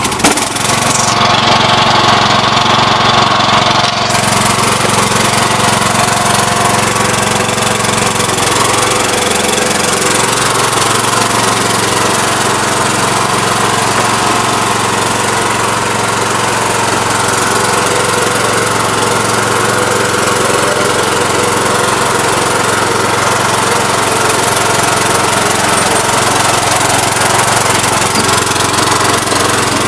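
Toro garden tractor's 20 hp Kohler engine running steadily after a cold start; about ten seconds in its speed sags briefly and then picks back up.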